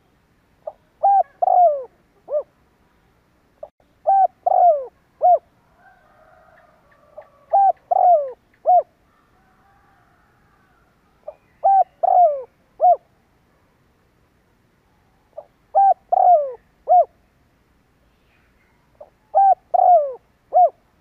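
Spotted dove cooing: a phrase of four or five short notes, each falling in pitch, repeated about every four seconds, six times. This is the bird's crowing song, used here as a call to stir up wild doves.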